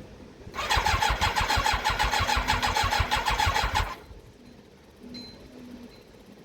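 Yamaha YZF1000R Thunderace's inline-four turned over on its electric starter for about three and a half seconds, cranking in an even rhythm without firing, then stopping. It won't catch because the freshly rebuilt carburettors are still priming, their float bowls still filling with fuel.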